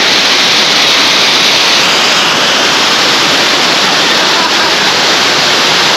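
Waterfall rushing close by: a loud, steady noise of falling water.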